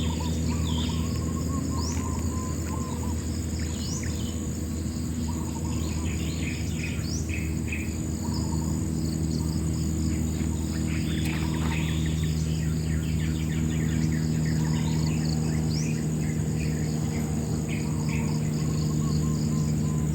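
Insects trilling steadily in a high, continuous tone while birds chirp, with short upward-sweeping calls every few seconds, over a low steady hum.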